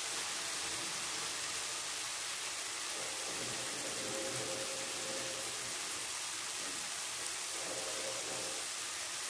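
Tomato, onion and garlic sizzling steadily in oil in a frying pan as they sauté.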